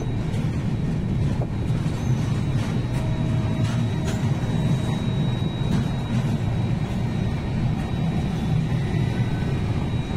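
Steady low rumble of a train running, heard from aboard, with faint scattered clicks.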